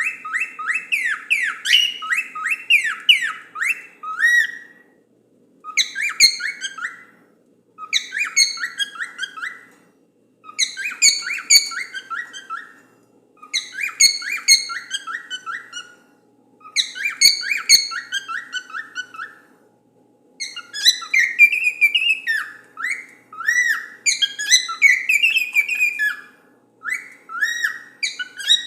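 Cockatiel singing: phrases of quick whistled notes and up-and-down sweeps, repeated over and over with short pauses between them.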